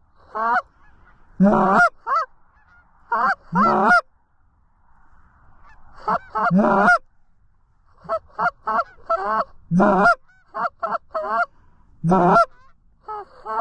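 Geese honking: loud, short two-note honks in groups, falling quiet about four seconds in, then a quick string of honks from about eight seconds on.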